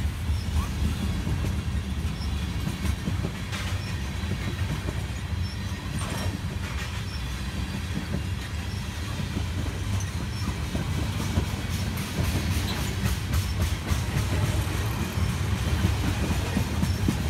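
Freight cars of a manifest train, mostly tank cars, rolling past close by: a steady low rumble of steel wheels on rail, with scattered clicks as wheels cross the rail joints.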